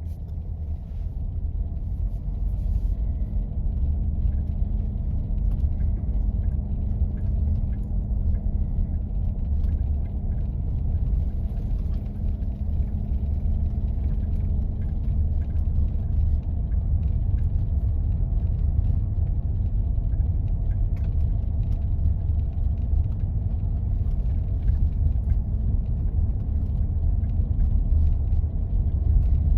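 A 4x4 vehicle driving on snow-covered roads: a steady, low rumble of engine and road noise.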